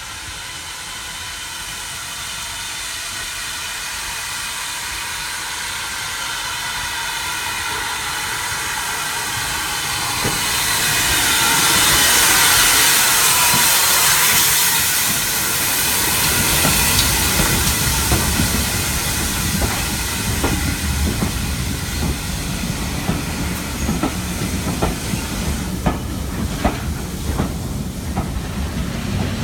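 A train approaching and passing close by, getting steadily louder to a loud hiss about twelve seconds in; after that its wheels click over the rail joints again and again as the carriages go by.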